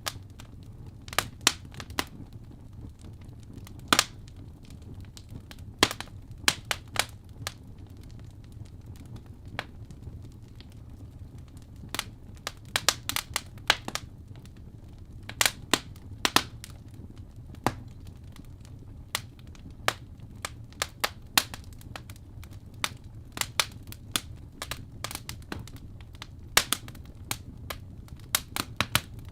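Wood fire crackling in a fireplace: irregular sharp pops and snaps, sometimes in quick clusters, over a steady low rumble of the flames.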